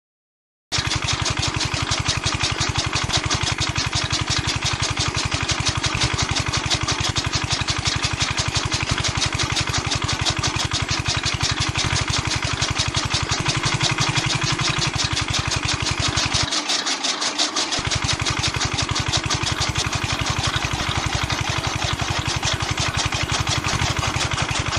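A small motor running steadily with a fast, even beat, starting abruptly just under a second in; its low end drops out for about a second around two-thirds of the way through.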